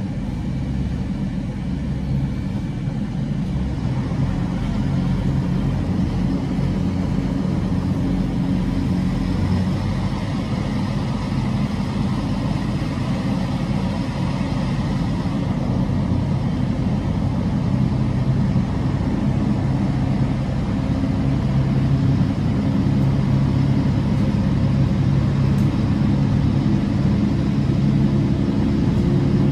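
Train running: a steady low hum and rumble, with a tone rising in pitch near the end as it picks up speed.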